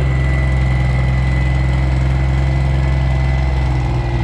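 Heavy engine of a truck- or tractor-pull vehicle idling with a deep, steady note; the note shifts slightly near the end.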